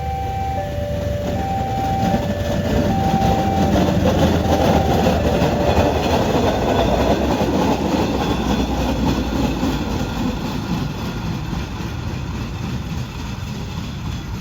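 A train running past at a level crossing: the rumble and clatter of its wheels over the rails swell, peak and ease off. The crossing's electronic warning alarm sounds two alternating tones over the first few seconds, then stops.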